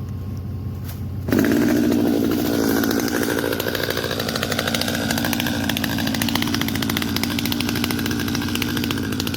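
Stihl MS 250 two-stroke chainsaw idling, then throttled up about a second in and running at full revs under load, its pitch sagging and wavering as it cuts through a fallen tree.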